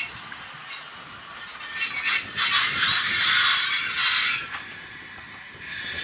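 Train running on steel rails with a steady high-pitched wheel squeal over the rail noise, loud for the first four and a half seconds, then dropping away much quieter.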